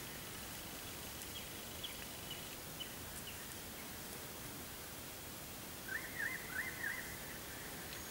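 Steady outdoor background hiss with a bird calling: faint high chirps in the first few seconds, then a quick run of three or four warbling up-and-down notes about six seconds in.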